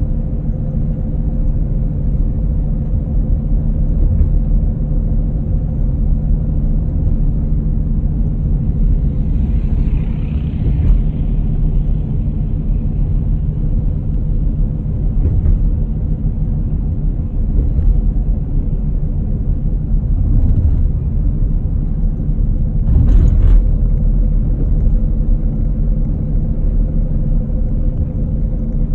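Steady low rumble with a constant hum, like a motor or engine running at an even speed. A brief louder noise comes about 23 seconds in.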